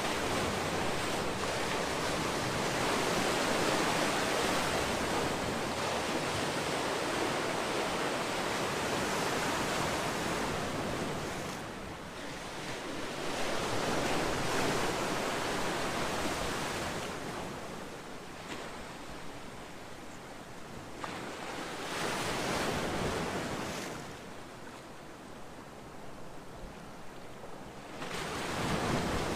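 Ocean waves breaking on a beach, the surf swelling and washing back in slow surges several seconds apart.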